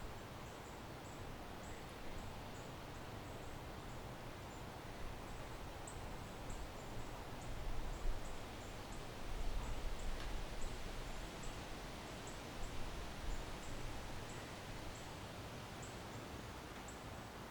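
Backyard ambience: a steady outdoor noise bed with wind gusting against the microphone as low rumbles, strongest a little before the middle. Short, high chirps repeat irregularly throughout, about one or two a second.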